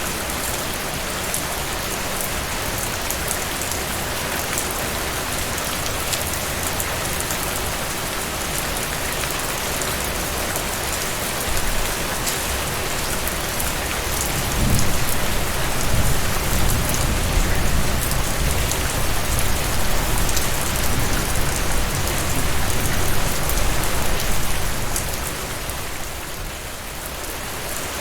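Heavy rain falling steadily, with fine drop patter. A low rumble swells in about halfway through and fades out a few seconds before the end.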